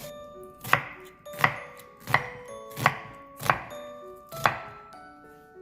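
Kitchen knife chopping on a cutting board, six firm chops about one every 0.7 s, cutting blanched spinach.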